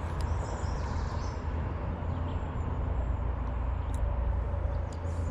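Steady low outdoor rumble with a few faint, high bird chirps.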